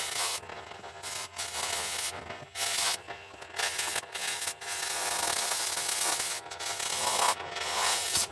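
Oxy-fuel cutting torch washing out a weld seam on a steel frame cross member: a rough hiss that cuts in and out several times.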